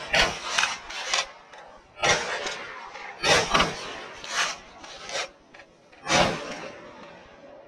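Irregular rough rasping rustles, about eight in a row, each under half a second, of brush or clothing rubbing close to the microphone in a brush blind.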